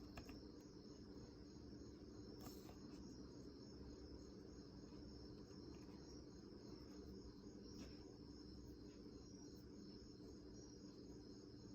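Near silence: room tone with a faint, steady high-pitched pulsing trill and a low hum, and a few soft clicks.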